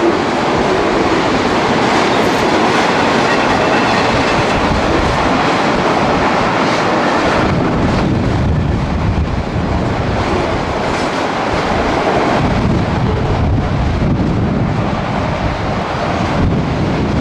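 Freight train of autorack cars rolling past, steel wheels clattering over the rail joints in a loud, steady rush of noise that grows deeper about halfway through.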